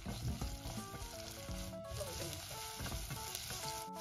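Sliced shallots frying in hot coconut oil with fenugreek and cumin seeds, sizzling steadily while a silicone spatula stirs them through the pan.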